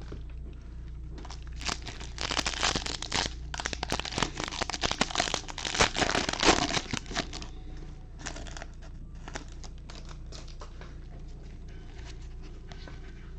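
A trading-card pack's foil wrapper being torn open and crinkled in the hands: a dense run of crackling for several seconds, then a few lighter crinkles and clicks.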